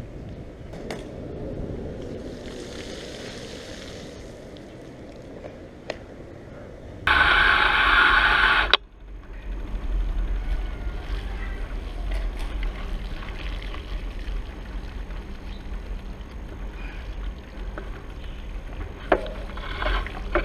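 Wind buffeting the microphone and road rumble from riding bicycles. About seven seconds in, a loud, harsh sound with a buzzing tone lasts under two seconds and cuts off abruptly, after which the low rumble gets heavier.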